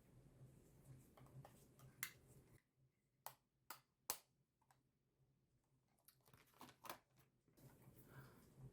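Faint, sharp clicks and taps of makeup cases and tools being handled: a few single clicks spread out, then a quick run of small clicks about six to seven seconds in, over near silence.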